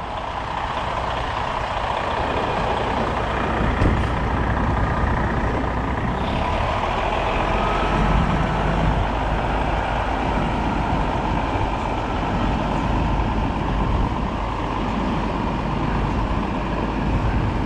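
Large diesel truck engine running steadily, with a single click about four seconds in.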